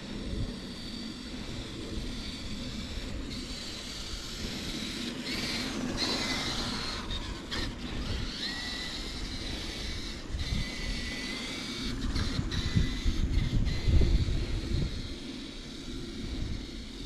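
Electric RC truck driving through snow: a thin motor whine that rises and falls in pitch with the throttle, over a low rumble that grows loudest about two-thirds of the way through.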